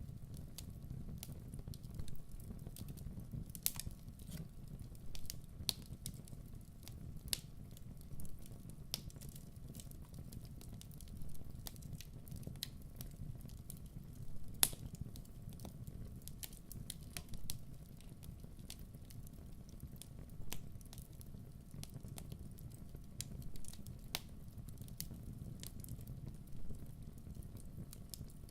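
Wood fire burning with a low rumble and scattered sharp crackles and pops, one every second or so.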